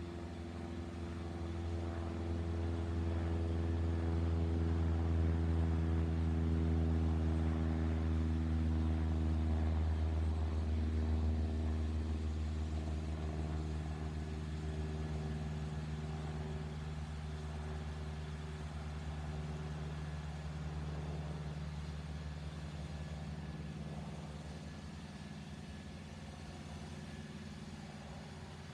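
Cessna 152's four-cylinder Lycoming engine and propeller droning as the plane flies over: the drone swells to its loudest, drops in pitch as the plane passes, then slowly fades away.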